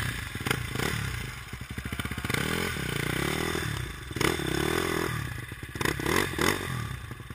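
Dirt bike engine revving up and down several times, with a few sharp clattering knocks.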